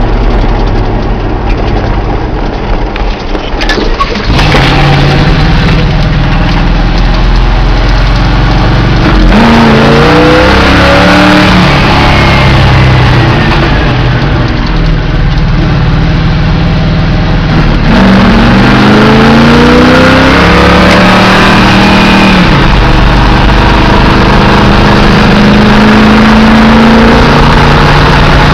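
1988 Dodge truck's 360 small-block V8 running loudly, with the revs climbing about ten seconds in and again about eighteen seconds in.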